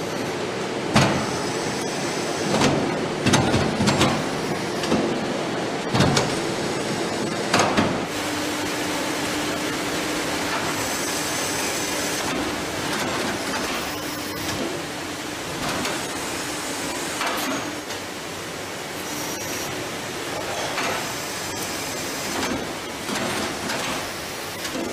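Factory assembly-line noise: a steady machine hum and hiss with scattered metallic knocks and clanks, most of them in the first eight seconds, and a few short hisses later.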